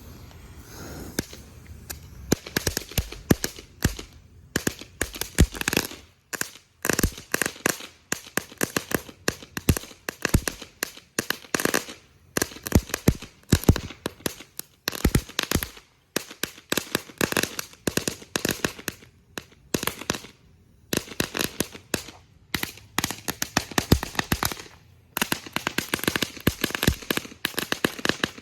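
A firework going off in a long run of rapid bangs and crackles, starting about two seconds in and pausing briefly a few times.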